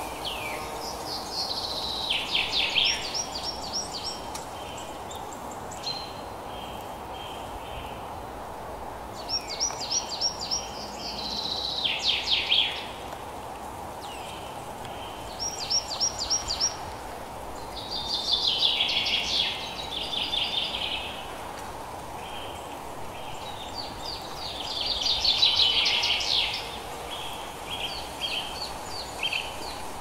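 A songbird sings repeated phrases of quick, high, downward-sweeping notes, each phrase lasting one to three seconds and coming every few seconds, with softer short notes between them, over a steady background hiss.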